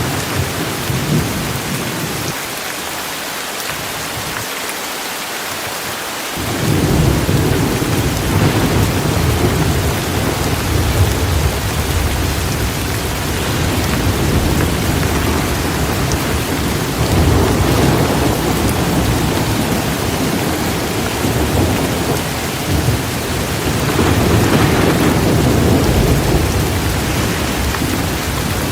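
Heavy, steady rain with rolling thunder. The low rumble falls away for a few seconds early on, comes back strongly about six seconds in, and swells twice more later.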